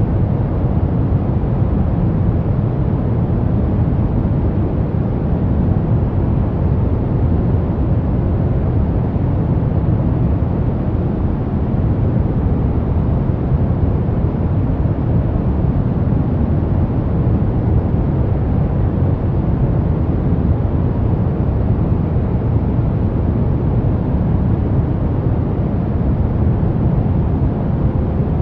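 Steady pink noise: an even, unchanging rushing sound, deepest and strongest in the low end.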